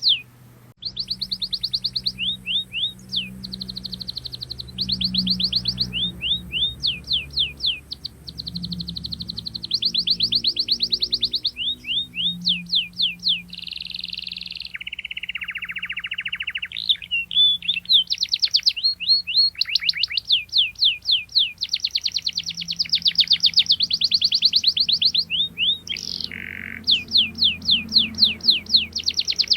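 Domestic canary singing: phrases of rapid, repeated high chirp trills, each a second or two long, with a lower buzzing roll about halfway through.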